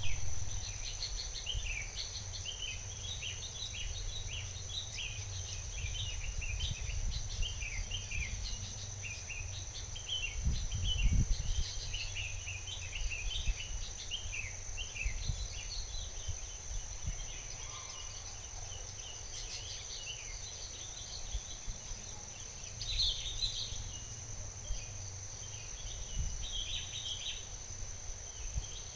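Countryside ambience: a steady, high insect trill with many short bird chirps over it. A low rumble sits underneath and swells briefly about ten seconds in.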